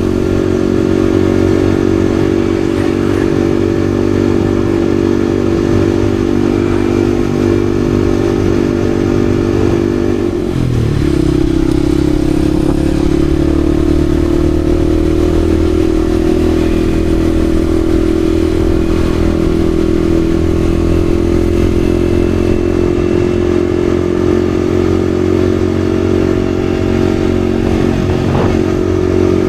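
Yamaha XSR155's single-cylinder engine running under way at steady revs. About ten seconds in the revs dip briefly, then hold steady again.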